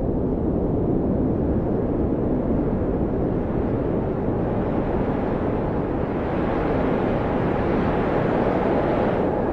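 Blizzard wind blowing hard and steadily: a deep rumble with a hiss that grows louder and brighter from about six seconds in.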